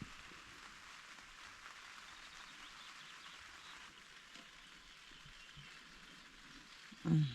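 Steady light rain falling, an even hiss of drops. A short voice-like sound comes in near the end.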